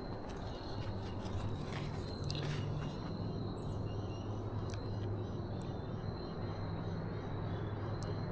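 A bird calling over and over, faint high chirps repeating through the second half, over a steady low hum and a few light clicks.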